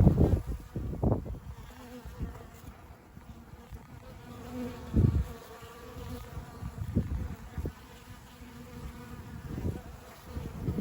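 Honeybees buzzing as they fly in and out of a log hive, a steady hum. Several short low rumbles of wind buffeting the microphone rise above it now and then.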